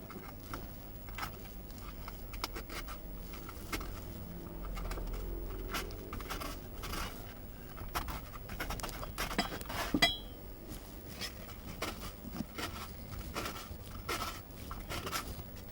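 CNC router milling pine, heard as irregular scratchy ticks and clicks over a low, steady hum, with a brief high tone about ten seconds in.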